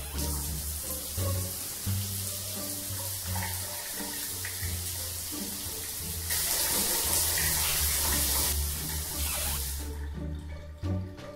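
Shower spray running, a steady hiss of falling water that grows louder for a couple of seconds past the middle and stops shortly before the end, over background music with low bass notes.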